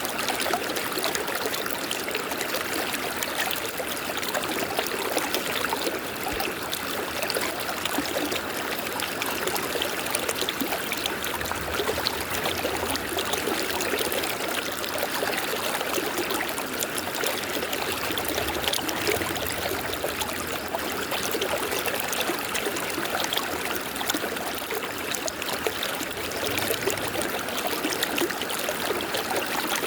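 River water flowing, a steady, unbroken noise of running water.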